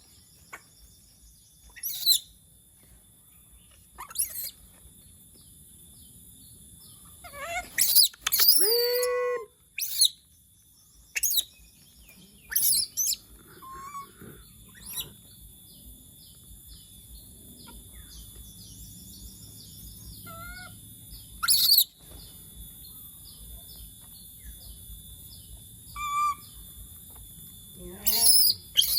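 A pet monkey screeching: short, sharp high-pitched squeals at irregular intervals, with one longer call about eight seconds in that falls in pitch.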